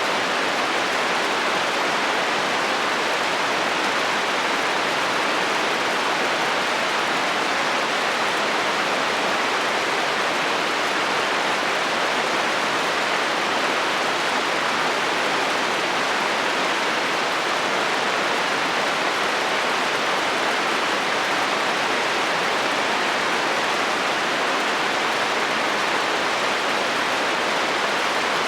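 Rain falling steadily on a metal roof, an even, unbroken hiss with no thunder or single drops standing out.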